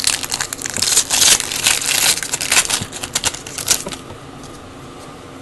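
Trading cards and their packaging being handled: a quick run of crinkling and clicking that stops about four seconds in.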